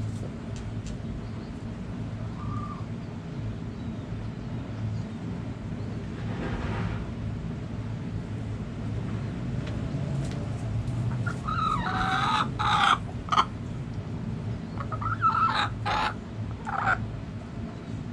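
A rooster crows once, a loud call of about two seconds, starting about two-thirds of the way in, followed by a few shorter calls from the chickens near the end, over a steady low background rumble.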